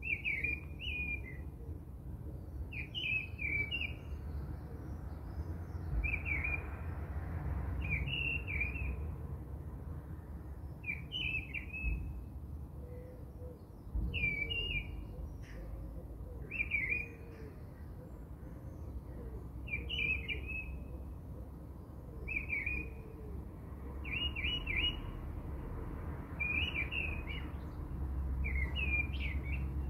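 A bird chirping a short phrase over and over, about every two to three seconds, over a steady low rumble.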